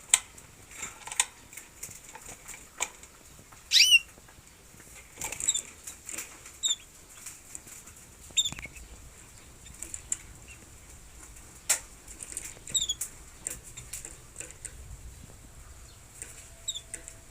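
Small birds giving short, sharp chirps every second or so, with a louder run of sweeping calls about four seconds in, mixed with scattered sharp clicks.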